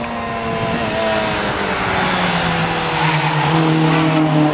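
Rally car engine running hard, its note falling slowly and steadily over several seconds.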